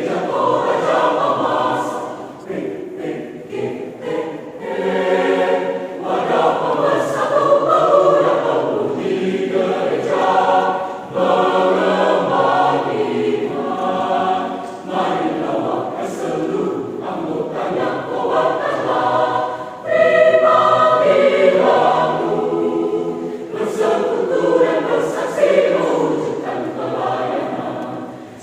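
A choir singing a hymn-like piece in sung phrases, with short breaths or pauses between the phrases.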